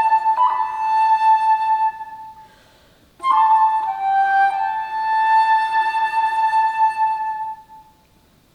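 Solo alto flute playing two long held notes, each starting with a brief ornament and dying away, with a short silence between them and another near the end.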